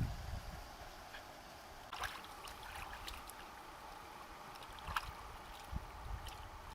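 Water sloshing and trickling, with a few light splashes or clicks about two, three and five seconds in.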